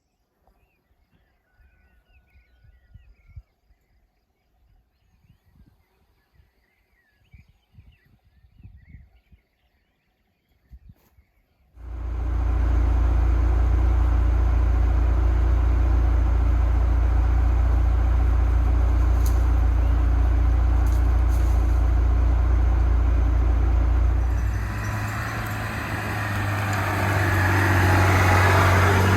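Faint birds chirping over near quiet. About twelve seconds in, a Lada Niva's engine sound cuts in suddenly and runs steadily with a deep low hum. Near the end the engine speed rises and the sound grows noisier, as under acceleration.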